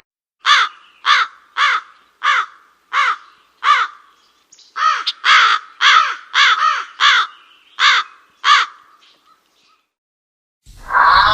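Crow cawing: a run of about six harsh caws, then after a short pause a quicker bout of about eight more.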